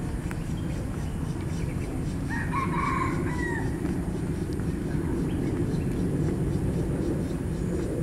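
A single drawn-out bird call of about a second and a half, a couple of seconds in, in two stacked tones that bend down at the end, over a steady low background rumble.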